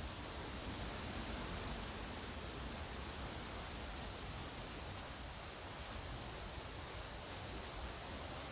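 Steady hiss of gentle outdoor wind, with a low rumble of wind on the microphone.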